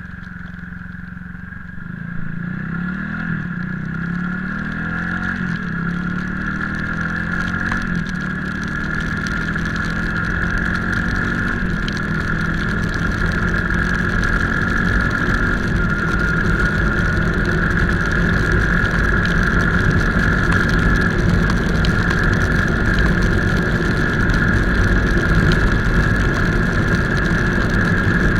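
Motorcycle engine pulling away, its pitch rising in several steps over the first few seconds as it goes up through the gears, then a steady rumble of riding that slowly grows louder, with a constant high whine throughout.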